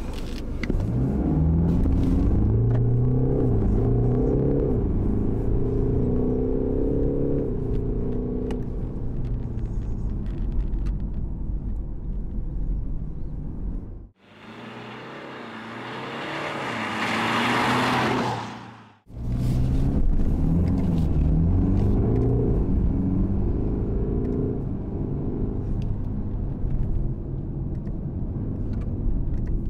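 BMW 420d's 2.0-litre four-cylinder diesel engine heard from inside the cabin under acceleration, its pitch climbing through each gear and dropping back at the shifts. About halfway through it gives way to a rising rush of noise for several seconds that cuts off suddenly, then the engine returns.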